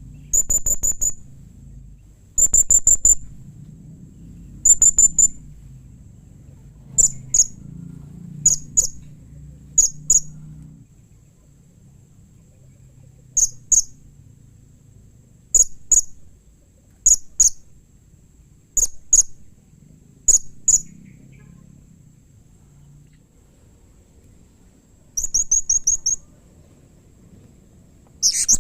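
Blue-crowned hanging parrot (serindit) calling: very high, rapid trilled chirps in bursts of about a second, repeated every couple of seconds, with pairs and triplets of short sharp notes between them.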